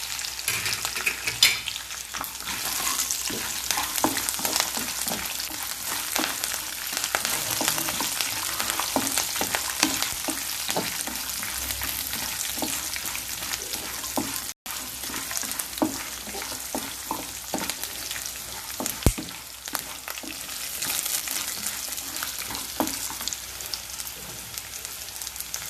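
Cashews, raisins and thin-sliced coconut frying in hot oil in a kadai with peanuts, roasted gram, garlic, green chillies and curry leaves. A steady sizzle runs throughout, broken by frequent scraping and clicking as the mixture is stirred. The sound cuts out for an instant about halfway through.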